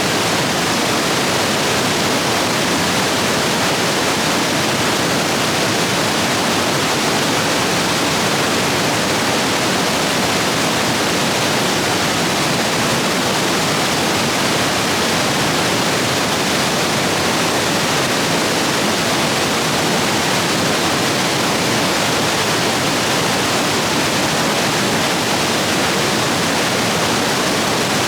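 Rapids rushing over rocks, swollen after heavy rain: a loud, steady rush of water with no pauses or changes.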